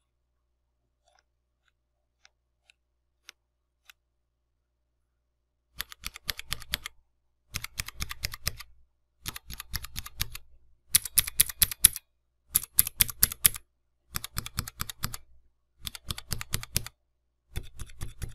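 RK61 mechanical keyboard with clicky blue switches being typed on in short bursts of rapid key clicks. It is nearly silent apart from a few faint ticks until about six seconds in; then come about seven bursts, each a second or so long, with short pauses between them.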